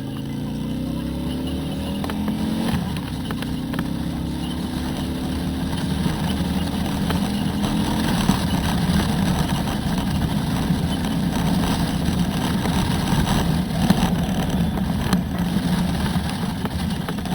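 Harley-Davidson Road Glide's V-twin engine under acceleration: it revs up, drops in pitch with a gear change about three seconds in, then pulls up again. It then settles into a steady cruise with heavy wind rush.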